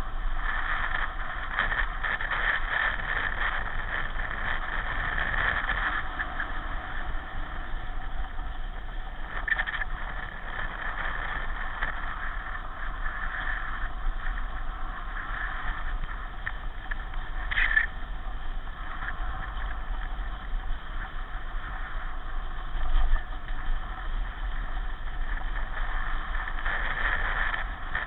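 Steady running noise of a pedal car on the move, with a brief sharp click or knock about halfway through.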